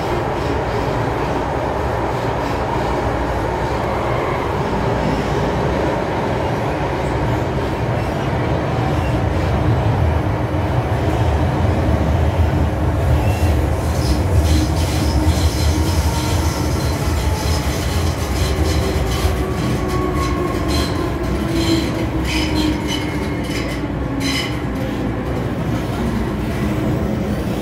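MTR M-Train metro train running, a steady low rumble. From about halfway, wheels clatter and click over the track. Its motor tone falls in pitch in the second half as the train slows.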